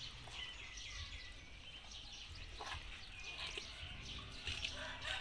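Faint bird chirps over low outdoor background noise.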